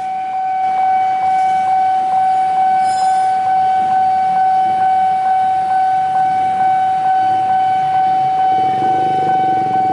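A long, steady warning tone at a railway, held at one pitch without a break and carrying a faint tick about three times a second.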